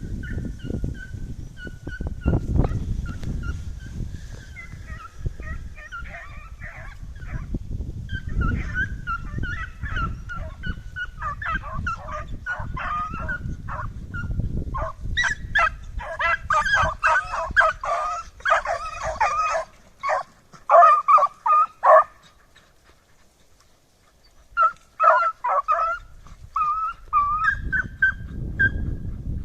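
Pack of scent hounds baying and yelping on a hare hunt, giving tongue as they work the trail. The cries come scattered at first, crowd into rapid bursts through the middle, break off for about two seconds, then start again, over a low rumble in the first half.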